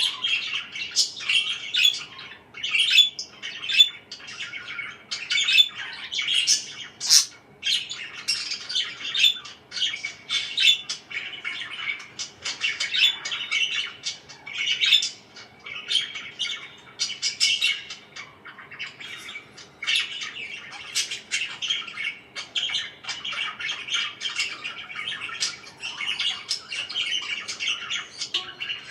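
Pet parakeets chirping in a continuous stream of short, high calls with no pause.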